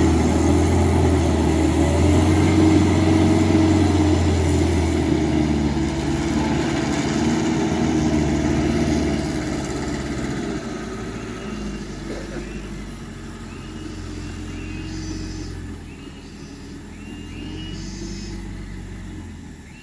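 A dump truck's engine running with a steady deep hum that gradually grows quieter. Faint short high chirps come in over the second half.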